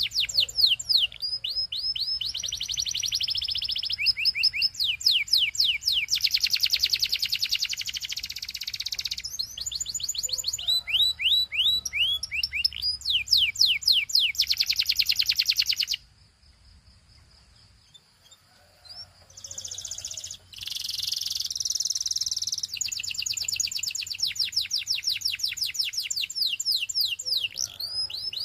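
Canary singing: high, fast trills and rapid runs of repeated sweeping notes. The song breaks off for about two seconds just past the middle, then starts again.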